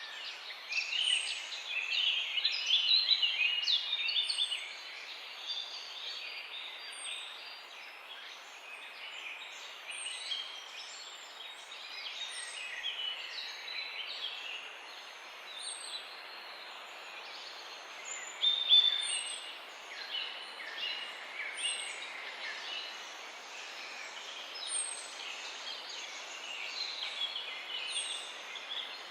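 A dawn chorus of several songbirds chirping and trilling over one another. A thin, high falling note repeats every two to three seconds, and the song is loudest in the first few seconds and again briefly about two-thirds of the way through.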